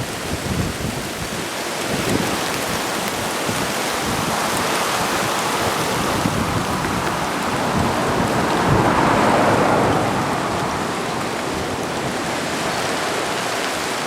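Rushing floodwater of the Yakima River over its banks, a steady hiss of water that swells slightly about nine seconds in.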